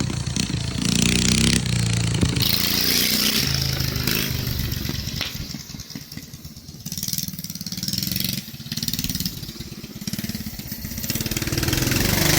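Minibike's 212cc single-cylinder four-stroke engine revving up and down as it races round the course. It fades as the bike moves away around the middle and grows louder again near the end as it comes back.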